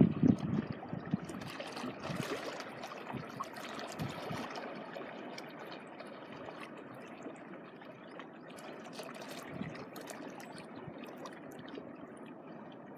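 Shallow seawater washing and trickling over the shore, a steady wash with small crackles. Low gusts of wind on the microphone in the first second or so.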